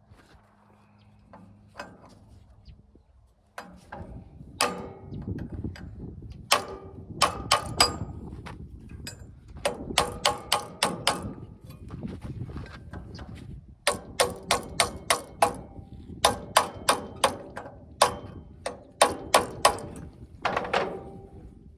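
A hammer driving a brass drift against the starter clutch to loosen it: runs of sharp, ringing metal blows, several a second, repeated in bursts.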